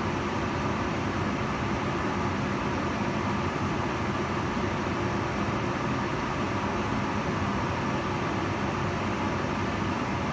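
Kitchen range hood fan running steadily: an even airflow rush, strongest in the low and middle range, with a faint hum.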